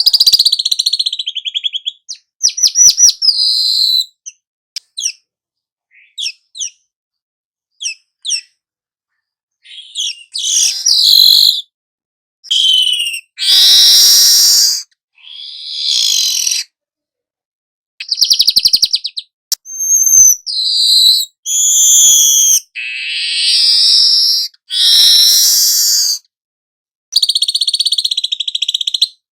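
Birdsong: a string of varied high chirps, rapid trills and whistled phrases, each phrase a second or two long with short silent gaps between.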